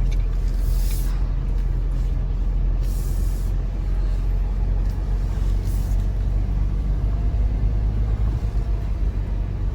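2025 Chevy Colorado ZR2 pickup crawling slowly over a rough dirt trail: a steady low engine and road rumble, with three brief hissing bursts about one, three and six seconds in.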